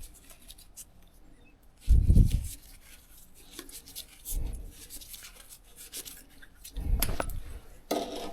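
Close handling sounds of PTFE thread-seal tape being pulled off the roll and wrapped onto a pipe fitting's threads: light rubbing and clicking, with several dull knocks, the loudest about two seconds in and again about seven seconds in.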